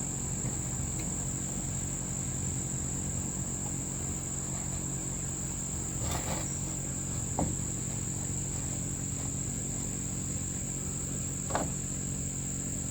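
Crickets chirring as a steady high-pitched drone over a low steady hum, with a few faint clicks about halfway through and again near the end.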